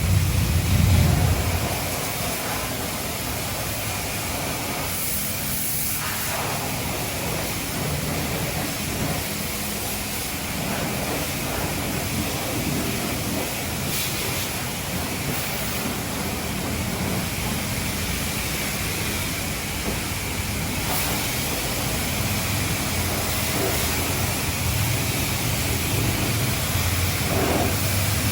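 Self-serve car-wash pressure wand spraying water onto a pickup truck, a steady hiss of spray. A louder low rumble sits under it for the first couple of seconds.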